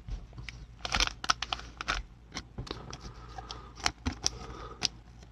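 Trading cards being handled and sorted by hand: scattered light clicks and soft rustles at an irregular pace.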